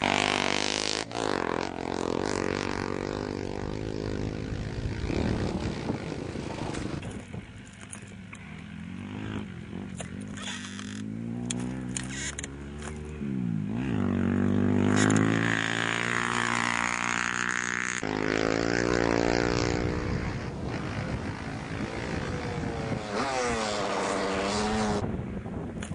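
Engines of off-road rally motorcycles and quads on a special stage, revving up and down as they race past, with the pitch sweeping down and back up several times.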